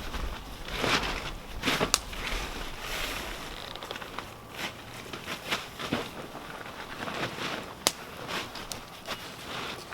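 Wood campfire crackling, with irregular sharp pops and snaps over a steady hiss; the sharpest pops come about two seconds in and near eight seconds.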